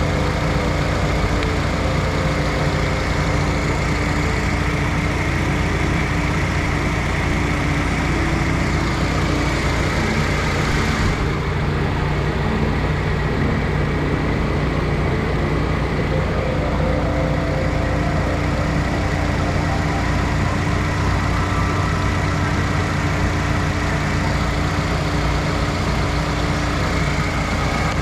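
Engine of a 2000 Mitsubishi 1.75-ton truck idling steadily after a rebuild for a burnt head gasket.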